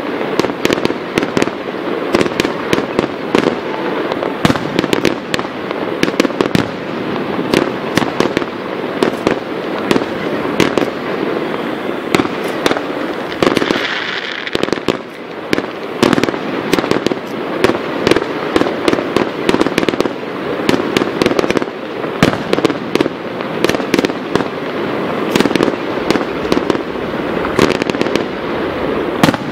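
Aerial fireworks display: a dense, unbroken barrage of bangs and crackling pops from shells bursting, several a second.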